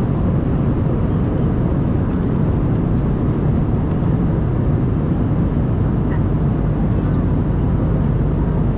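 Steady cabin noise of an Embraer E190-E2 airliner, its Pratt & Whitney PW1900G geared turbofans and airflow making an even, unchanging roar.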